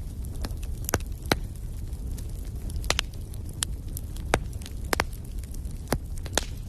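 Wood fire in a fireplace crackling: sharp irregular pops and snaps, about ten in a few seconds, over a steady low rumble of the flames.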